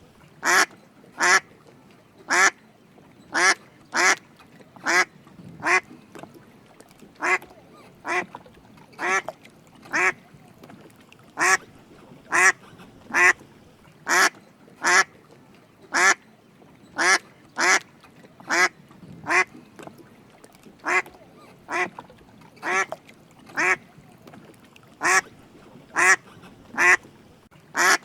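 Drake mallard duck quacking: short single calls repeated about once a second, with uneven gaps between them.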